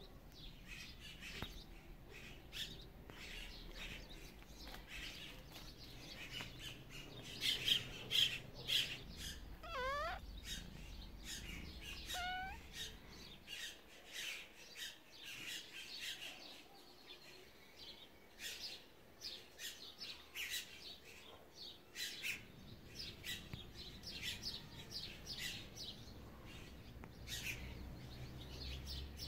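Birds chirping in many quick, short calls throughout, with a rising whistled note about ten seconds in and another shorter one about two seconds later.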